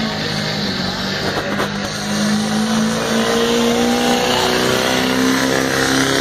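Chevrolet pickup truck's engine held at high revs while pulling a weighted sled in a truck pull, running at a steady high pitch that climbs slightly and grows louder about two seconds in.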